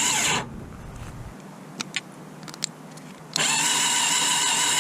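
Electric starter motor of a 1982 Yamaha Virago 750 V-twin cranking the engine during a spark test, a steady whine that stops about half a second in and starts again past three seconds. A few faint clicks in the pause between.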